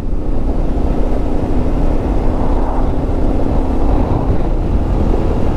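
Yamaha Ténéré 700's parallel-twin engine running at a steady pace while riding, under heavy wind rumble on the microphone.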